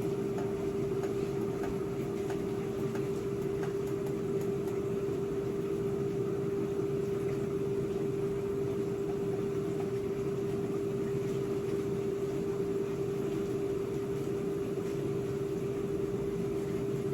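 A kitchen appliance motor running with a steady, unchanging hum.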